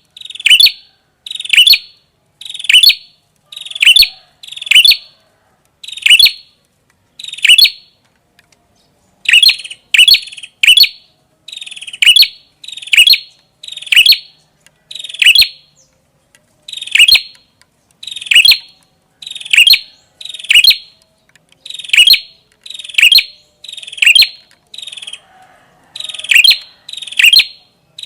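Red-headed prenjak calling over and over: a short, sharp, high call about once a second, with one brief pause about a third of the way through.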